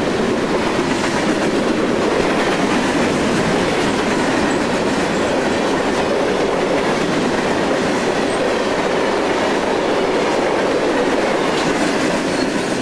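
Empty covered hopper cars of a freight grain train rolling past close by: a loud, steady noise of steel wheels running on rail, without let-up.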